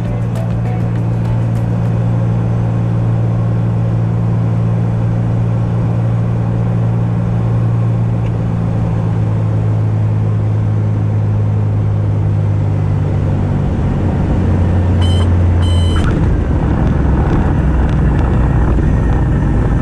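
Cessna 210's engine and propeller droning steadily, as heard inside the cabin in flight. The low drone shifts in tone about three-quarters of the way through, and two short high beeps sound just before.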